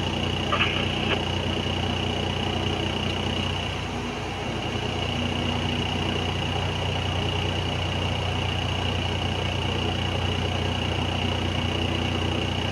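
Heavy mining machine's diesel engine running steadily, with a thin high whine held over it; the level dips briefly about four seconds in.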